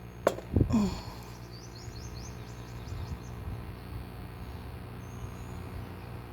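Steady low mechanical hum, with a sharp knock near the start, a short sound falling in pitch just after, and a run of faint high chirps a second or two in.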